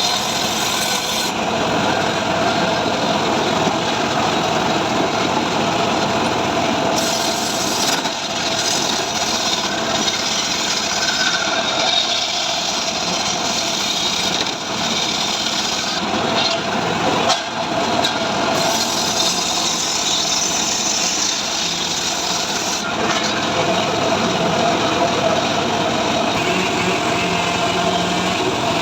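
Engine-driven power saw running steadily while cutting dry mahogany, with a continuous mix of engine noise and the rasp of the blade in the wood, dipping briefly a few times.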